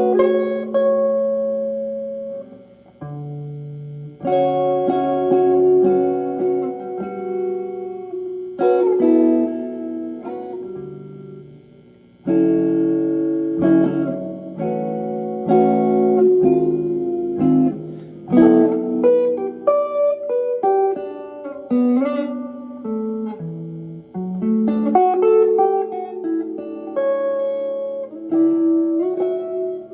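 Guitar played through a preamp, a Pioneer SR-202W spring reverb tank and an amplifier: a run of strummed chords and picked single notes that ring on. There are fresh chord attacks after brief dips about four and twelve seconds in.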